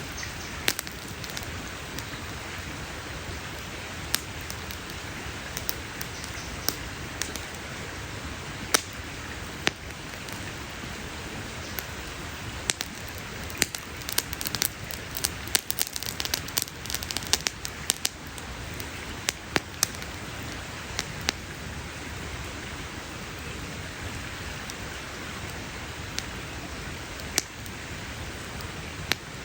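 Campfire crackling: sharp wood pops scattered over a steady hiss, with a dense run of rapid pops in the middle.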